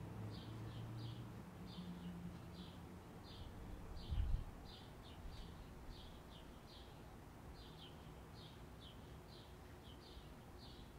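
A bird chirping over and over, about two short chirps a second. There is a faint low hum in the first few seconds and a single low thump about four seconds in.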